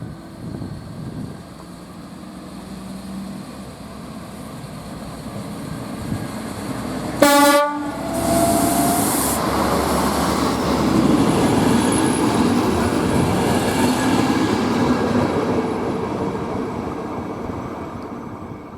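A train approaching and passing: a short horn blast about seven seconds in, then the loud noise of the train going by, fading away near the end.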